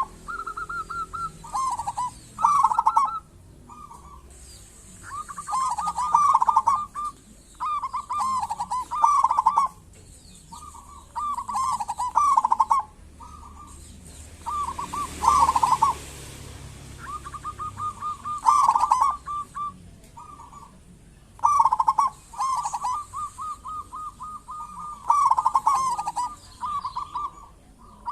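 Zebra dove (perkutut) singing: about a dozen repeated phrases of quick, trilled coos, each from under a second to a few seconds long, with short pauses between.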